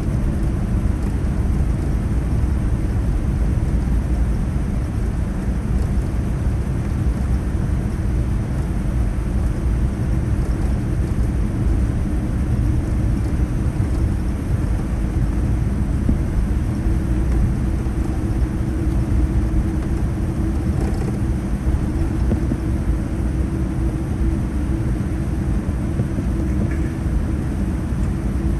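Steady low rumble and air hiss inside the cabin of a Boeing 787-9 on the ground after landing.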